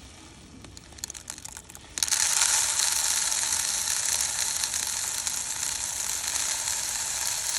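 Birdseed pouring through a funnel into a plastic soda bottle: a few scattered ticks of seed at first, then about two seconds in a sudden, steady, dense rattle of the seed stream running into the bottle.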